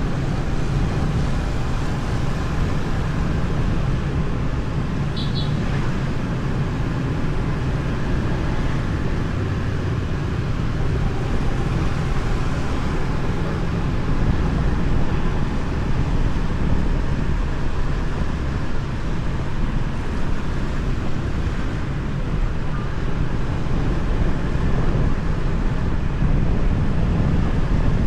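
Steady rumble of a motorbike ride through city traffic: engine, wind and road noise heard from the bike, with one brief high beep about five seconds in.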